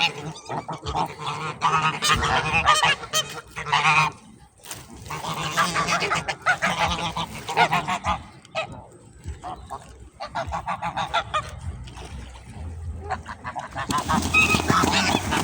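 A flock of geese honking, many calls overlapping in loud bouts with short lulls between.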